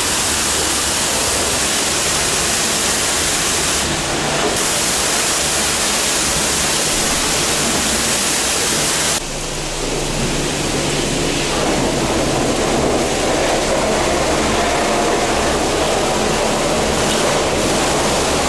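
Steady hiss of a car-wash spray wand working over a car's engine bay. About nine seconds in it cuts briefly and comes back with a duller, lower sound, as the spray shifts to a different spot.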